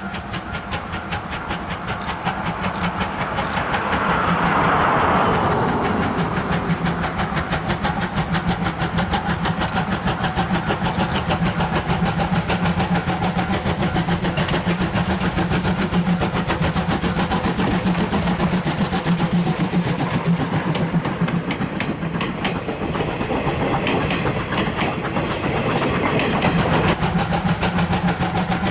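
A train running, its locomotive working steadily. The sound grows louder over the first few seconds and then holds.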